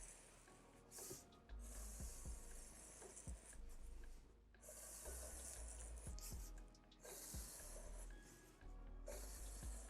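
Faint pencil scratching on paper as short feather lines are drawn: a series of hissy strokes about a second long, with brief pauses between them.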